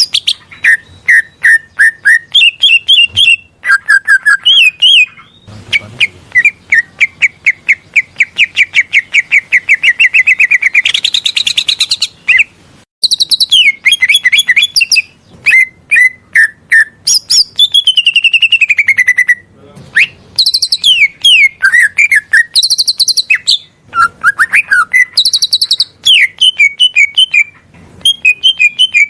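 Green leafbird (cucak ijo) singing a fast, varied song of sharp chirps, whistled trills and gliding notes, with only brief pauses. A long rapid trill comes about six seconds in, and falling whistles follow later.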